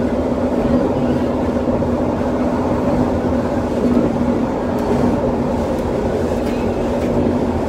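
Elevated SkyTrain light-metro train running at steady speed, heard from inside the car: a continuous rumble of wheels on rail with a constant low hum.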